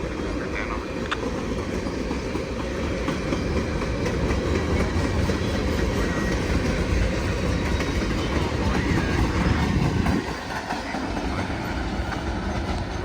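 A freight train's cars rolling past at close range: a steady rumble of wheels on rail that grows a little louder, then drops off suddenly about ten seconds in.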